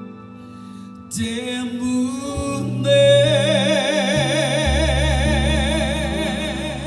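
A female singer with a live band: after soft sustained keyboard chords, her voice slides up about a second in, then holds one long high note with wide vibrato while the bass and band come in underneath.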